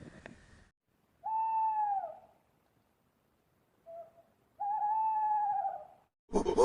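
An animal calling twice: two long, clear pitched calls of about a second each, the second slightly longer, each dropping in pitch at its end, with a short faint note between them.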